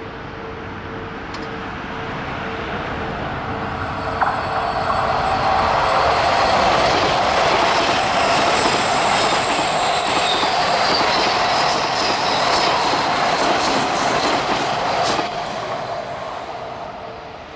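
Odakyu 4000 series electric train running past on the track. The rolling noise grows louder over the first few seconds, with high wheel squeal and a run of clicks over the rail joints, then drops suddenly near the end.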